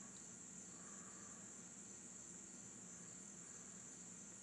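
Faint, steady high-pitched trill of crickets.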